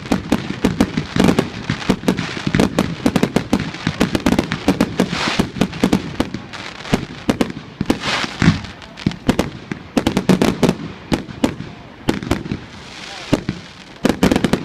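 Fireworks display going off in rapid volleys: a dense run of sharp bangs and crackles, several a second, with stretches of hissing crackle around the middle and near the end.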